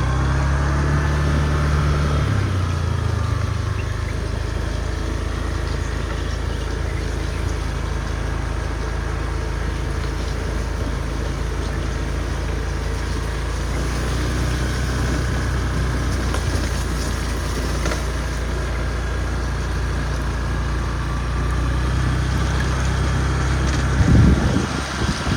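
Motor scooter engine running while riding. The engine note drops about two seconds in and rises again later, with a brief loud rumble near the end.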